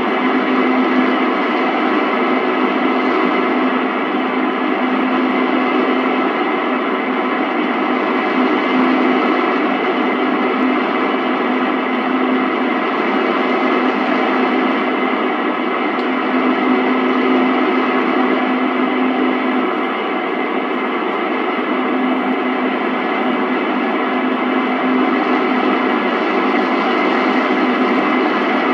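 Mediumwave AM reception on an Icom R71E communications receiver: steady static hiss with several steady whistles from stations sharing the channel. The strongest is a low tone that fades in and out every few seconds, and no programme audio comes through clearly.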